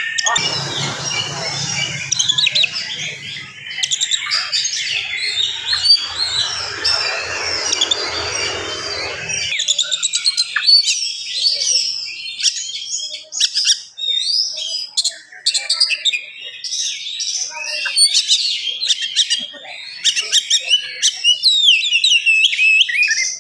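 Oriental magpie-robin (kacer) singing a fast, dense, unbroken run of varied whistles and chirps. A low hum sits underneath for the first nine seconds or so and cuts off suddenly.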